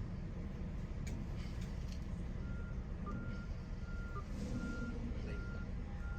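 Fire ladder truck's engine running, with its reversing alarm starting up about two seconds in: evenly spaced beeps, a little more than one a second, as the truck is put in reverse to back up.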